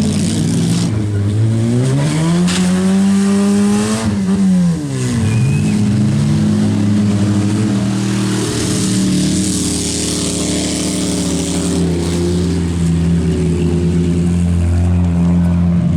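Demolition-derby compact cars' engines revving hard. One engine climbs in pitch and drops back sharply about four seconds in, then the engines hold a steady high drone.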